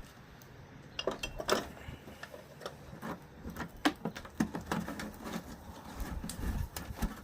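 Irregular metallic clicks, taps and clinks of hand tools working on a truck door's hinges, with a few louder knocks scattered through.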